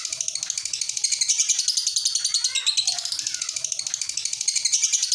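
Lovebird singing its ngekek song: a long, unbroken chattering trill of rapid, shrill notes.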